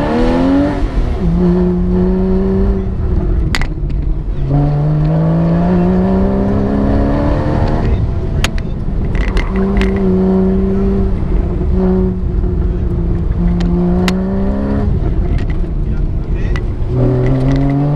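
Porsche engine heard from inside the cabin on an autocross run, its revs climbing, holding steady and dropping several times with throttle and gear changes. A few sharp clicks stand out over it.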